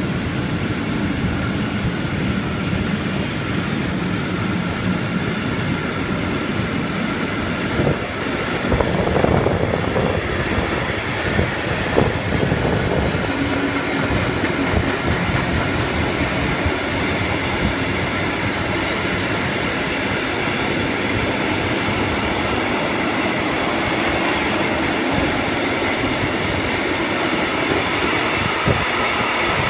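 A train running past on the line, its wheels rumbling and clattering over the rails without a break, with a few louder clanks about eight to twelve seconds in.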